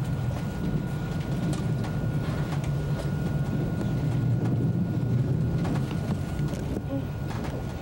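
Steady low rumble of an ICE high-speed train running, heard from inside the passenger car, with faint scattered clicks and rattles.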